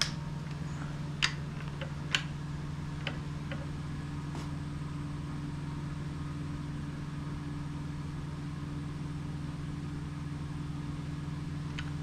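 Steady low electrical or fan hum, with a few sharp metallic clicks in the first three seconds from hand tools working the water pump housing bolts.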